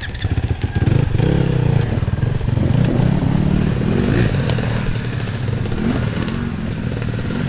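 Enduro dirt bike engine running and revving up and down as it rides, getting louder just before a second in.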